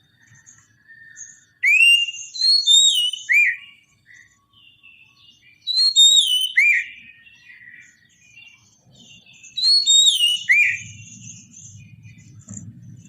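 Oriental magpie-robin (kacer) singing: three loud phrases of clear whistled notes that glide up and down, about four seconds apart, with softer twittering between them.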